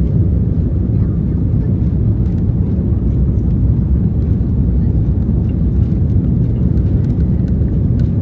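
Steady low rumble of an Airbus A330-200's jet engines and airflow during takeoff, with a few faint ticks scattered through it.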